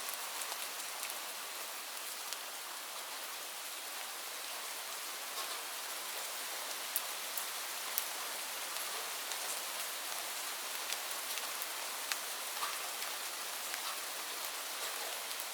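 Steady rain falling, a constant hiss with scattered sharp drop ticks on a hard surface.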